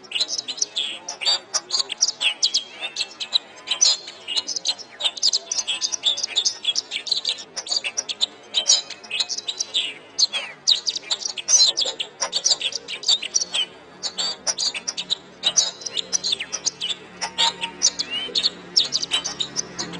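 Domestic canary singing a fast, continuous warbling song of rapid chirps and trills.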